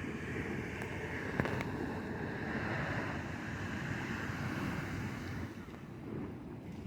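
Geyser erupting, a steady rushing hiss of spraying water and steam, with wind buffeting the microphone.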